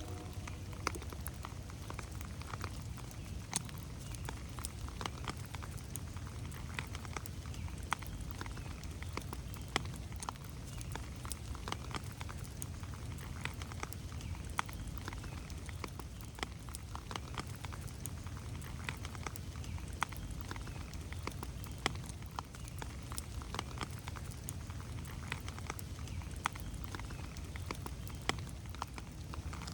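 Rain falling in a forest, with many irregular sharp drops pattering on leaves over a steady low rumble.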